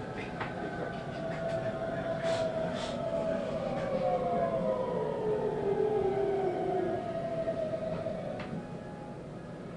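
Traction-motor inverter whine of a 521-series electric train, several tones gliding steadily down in pitch as the train slows, over the rumble of the running gear. The whine fades out near the end.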